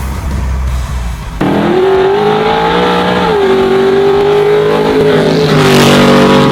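Classic Ford Mustang V8 rumbling low, then, after a sudden cut about a second and a half in, held at high revs at a steady pitch during a burnout, with the hiss of spinning tyres swelling near the end.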